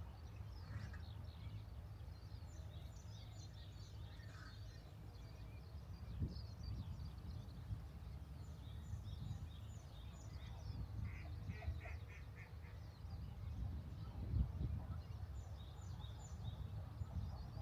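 Small birds chirping and calling on and off, with a short run of about five quick notes near the middle, over a steady low background rumble. A low bump is heard about fourteen seconds in.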